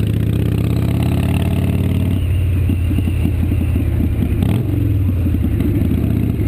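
Harley-Davidson V-twin motorcycle engine running while riding along a street. It starts as a steady drone, and about two seconds in it breaks into distinct, evenly spaced firing pulses.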